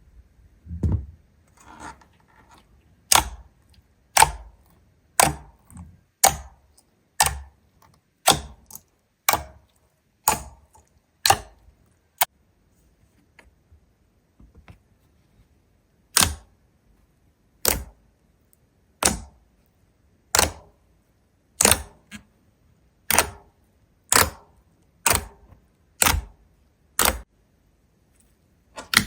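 A series of sharp clicking snaps, about one a second, each with a short low thump, pausing for a few seconds midway.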